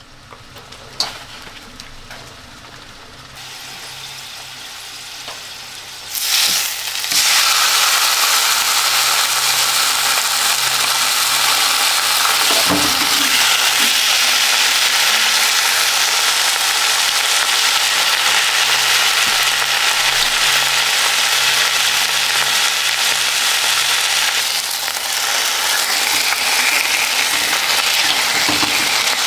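Food frying in a pan with a steady sizzle. It is softer at first and grows loud about six seconds in.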